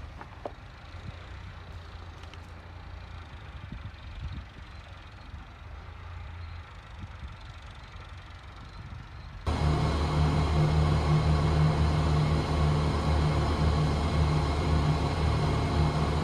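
A faint low hum. About nine and a half seconds in it cuts sharply to an engine running loudly and steadily at a constant pitch.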